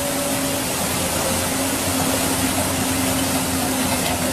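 An engine running steadily: a constant hum over an even rushing noise.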